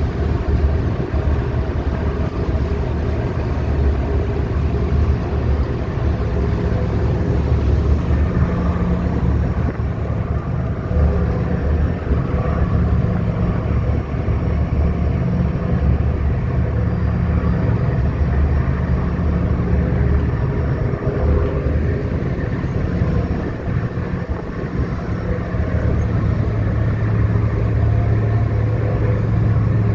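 Ferry's engines running under way: a steady low rumble with a constant drone, mixed with a noisy rush of water and air.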